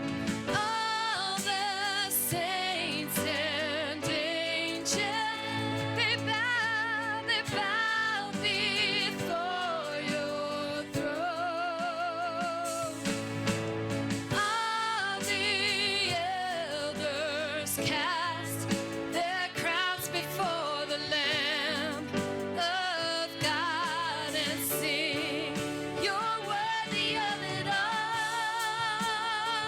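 Gospel worship song: a singer holding and bending notes with wide vibrato over instrumental backing with frequent sharp hits.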